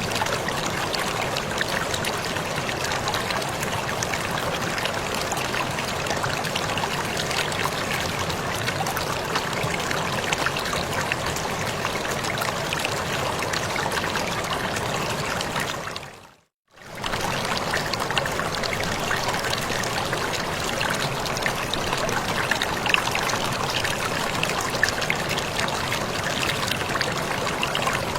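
Waterfall rushing steadily, an even wash of falling water. The sound fades out to silence for about a second just past halfway, then comes straight back.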